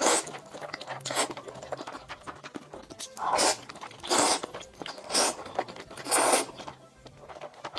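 A person eating close to the microphone, with a series of bites and crunches about once a second, some short and sharp, some longer and drawn out.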